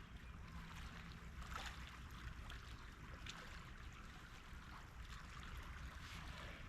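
Faint outdoor ambience: a steady low rumble with a light even hiss above it, and a few faint small clicks.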